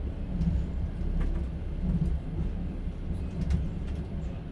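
Inside a moving passenger train carriage: a steady low rumble of the running train, with a few faint light clicks and rattles.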